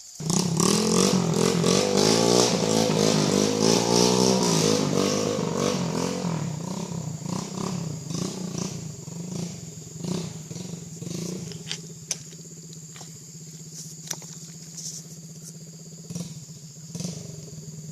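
An engine runs loudly with its pitch wavering up and down for about five seconds, then settles to a steadier, quieter drone. A few sharp knocks come through in the second half.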